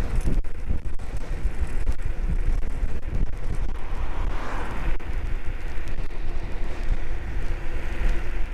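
Strong wind buffeting the camera microphone while riding an electric scooter, a loud, fluctuating low rumble. A faint steady hum joins about halfway through.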